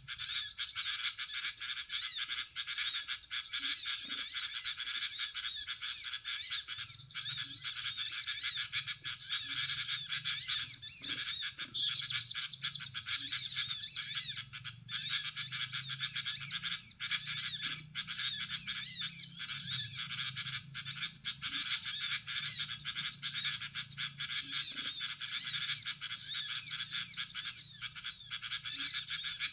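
Dense, continuous high chirping and twittering of many small birds, quick rapid notes with no pause, as used to lure small birds to glue traps.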